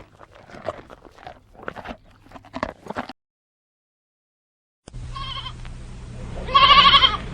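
A run of short clicks and crunches, then after a brief total silence a goat bleats: a short call about five seconds in and a loud, wavering bleat near the end, over a steady low hum.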